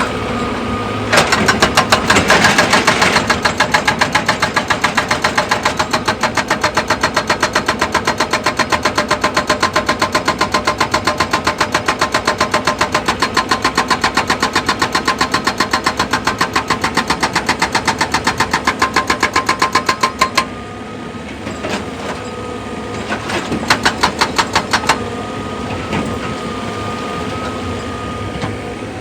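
Excavator-mounted hydraulic rock breaker hammering in rapid, evenly spaced blows over the machine's steady engine. It stops suddenly about twenty seconds in, then hammers again briefly a few seconds later.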